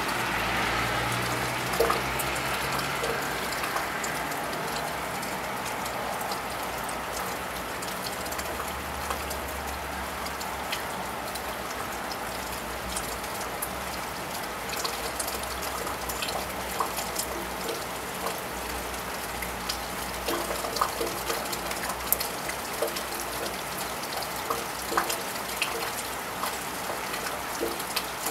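Steady rain falling, with scattered drips ticking. A car passes on the wet road in the first few seconds, its tyres swishing and then fading away.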